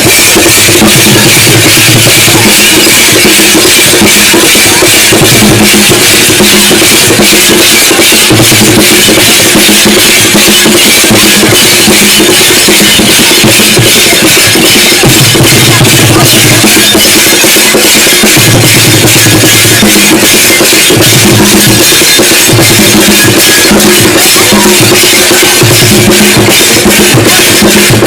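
Loud drumming music: dense, rapid drum strikes over a bass line that comes and goes in short repeated phrases.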